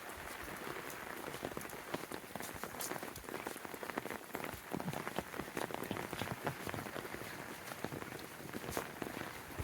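Steady rain falling, with many close, sharp drop hits scattered all through it.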